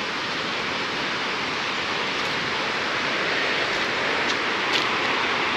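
Steady rush of flowing water, an even hiss with no rhythm, with a few faint ticks over it.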